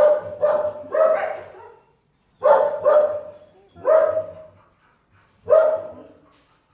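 A dog barking: about seven short barks, in clusters of two or three with pauses between.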